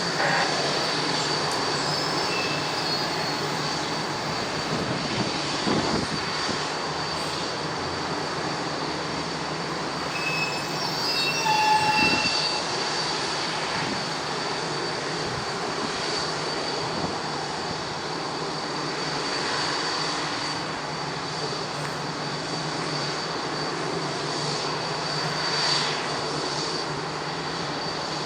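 Boeing 787-9's jet engines running at ground idle: a steady rushing noise with a high, even whine.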